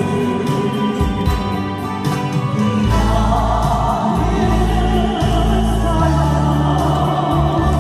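A live band playing a Korean trot song with singing, its bass line holding long low notes under the melody.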